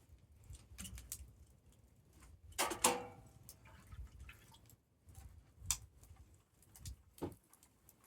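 Campfire wood crackling and popping, with irregular sharp snaps over a low rumble of the fire; the loudest pop comes a little under three seconds in.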